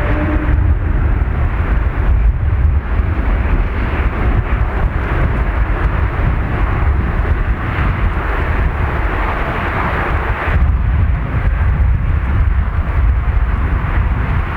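Jet engine noise from a landing Airbus A350-900, its Rolls-Royce Trent XWB engines heard as a loud, steady deep rumble with a noisy rush above it.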